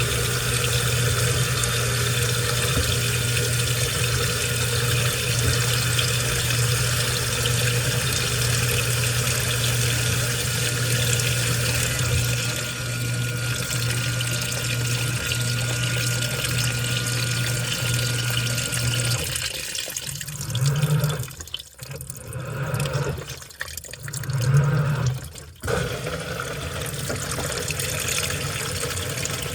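Washing machine running with water flowing steadily and a steady low hum. The hum stops about two-thirds of the way through, a few short swells of sound follow, and then the water flow carries on.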